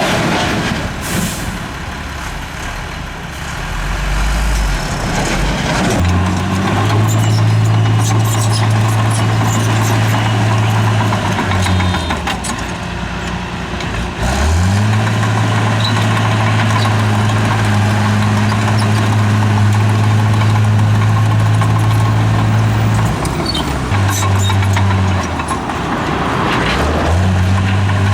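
Heavy diesel engine of an earthmoving machine running under work. Its speed rises and falls several times: up about six seconds in, down and back up around the middle, and again near the end, over a steady noisy background.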